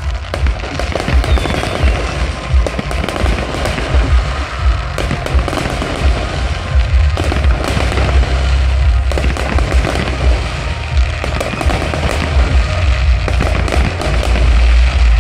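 Fireworks display: a dense, continuous crackle of many bursting fireworks with rapid bangs. Music plays alongside.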